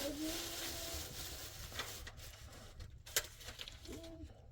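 Pencil scratching on paper for about two seconds, then a sharp tap a second later, with a faint voice humming in the background.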